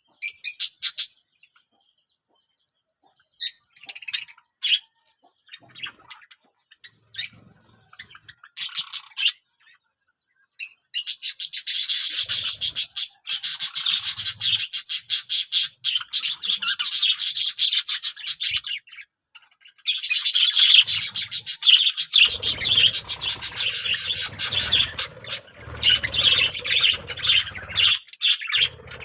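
Small birds chirping: scattered short chirps at first, then about ten seconds in, long runs of rapid, continuous high-pitched chirping with a brief break near twenty seconds.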